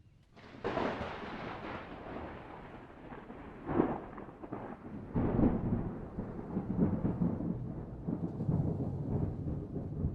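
Thunder: a sudden crack about half a second in, then a long rolling rumble with two louder cracks near the middle.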